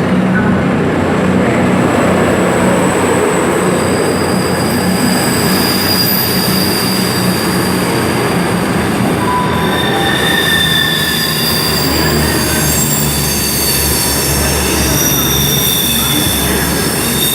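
Two coupled Class 221 Super Voyager diesel-electric units pulling out under power: a steady diesel engine hum with high-pitched wheel squeal in several tones that change pitch as the train moves off.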